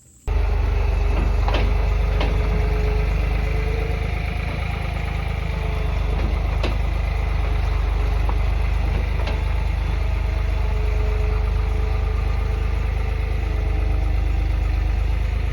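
An engine idling steadily with a deep, low rumble, starting abruptly just after the start, with a few sharp knocks over it.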